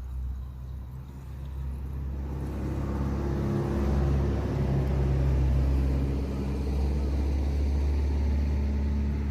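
A motor vehicle's engine running with a steady low hum, growing louder about two and a half seconds in and then holding steady.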